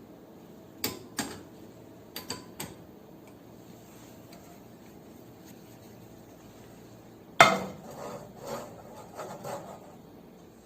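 Kitchenware clinking and knocking. There are a few light clicks in the first three seconds, then one loud clatter with a short ring about seven seconds in, followed by several smaller knocks.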